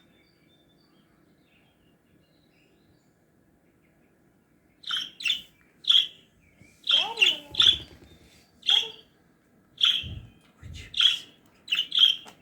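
Pet parrot giving short, sharp chirping calls, about a dozen in quick succession starting about five seconds in; the first few seconds are near silent. A couple of low thuds come in among the later calls.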